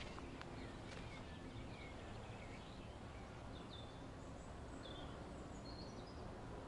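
Faint wild birdsong: short, separate chirps and whistles scattered through, over a steady outdoor hiss. A few light clicks in the first second.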